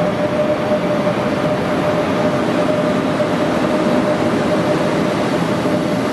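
Deutsche Bahn Intercity coaches rolling past as the train pulls out of the station: a steady rumble of wheels on rails, with a thin steady whine that fades about halfway through.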